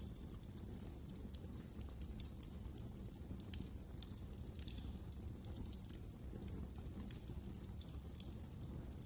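Wood fire burning in a fireplace: irregular small crackles and pops over a low steady rumble.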